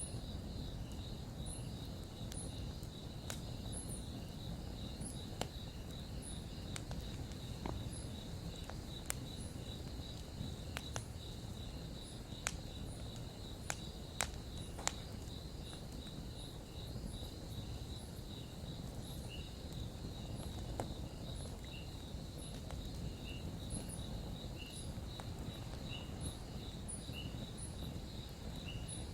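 Campfire crackling, with sharp pops scattered through it, most of them in the first half, over a low steady rumble. Insects chirp steadily in a high, even pulse behind it.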